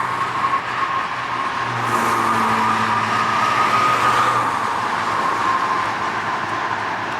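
Sport motorcycle engine running at a distance after a pass, a steady hum with a faint whine over street noise; the low engine note swells briefly in the middle and fades again.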